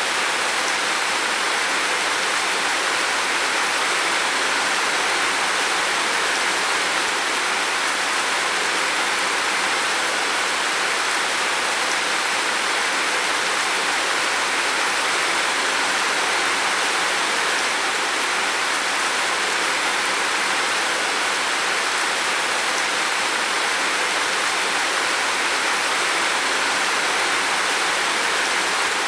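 Heavy rain falling on a roof: a steady, even hiss of rain with no distinct drops standing out.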